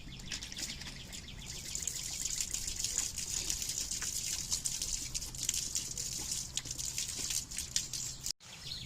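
Water pouring and splashing as a rabbit's water dish is emptied and refilled, a steady splashy hiss that cuts off suddenly near the end.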